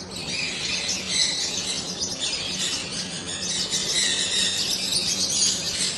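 Many caged pet parrots chirping and squawking at once in a dense, continuous chatter, over a steady low hum.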